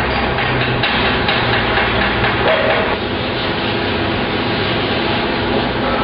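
Workshop noise: machinery running steadily under dense, rapid clattering and knocking, like metal being worked.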